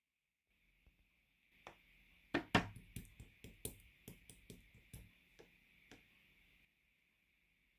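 Clear slime being handled: a string of sharp, irregular clicks and pops over a few seconds, the loudest pair about two and a half seconds in, over a faint hiss.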